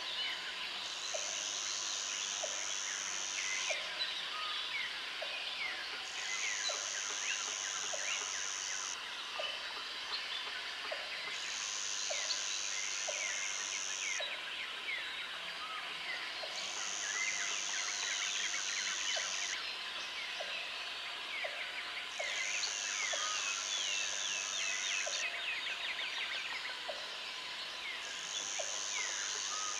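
Tropical forest ambience: a dense chorus of many birds chirping and whistling over one another, with an insect buzzing high and shrill in bouts of about three seconds, about every five seconds. A short low call repeats about once a second underneath.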